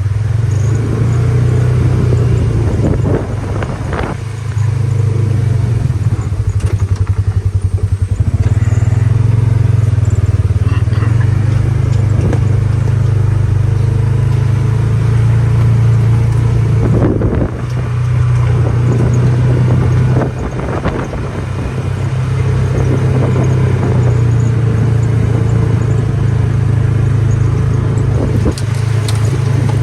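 A vehicle engine running steadily with a low hum while driving, with a few brief knocks and rattles along the way.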